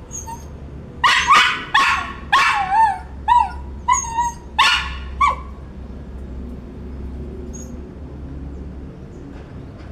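A small poodle barking and yipping: about eight short, high-pitched barks in quick succession, some wavering in pitch, that stop after about five seconds.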